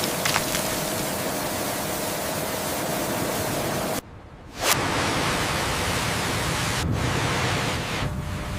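Steady rushing noise with a faint steady hum. It drops away abruptly about four seconds in and comes back with a sudden start half a second later.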